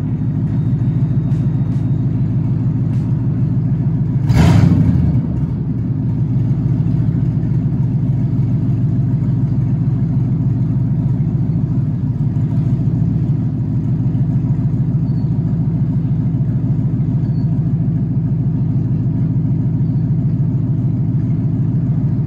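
Lincoln Mark VII's 5.0-liter small-block Ford V8 idling steadily, heard at the exhaust, with one quick rev about four and a half seconds in. The engine is freshly revived after years of sitting, running on a new fuel pump.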